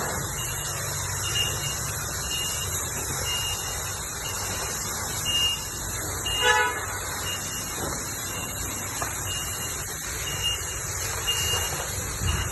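Steady rushing noise of car wash equipment with a high electronic beep repeating at short intervals, and one short horn-like toot about six and a half seconds in.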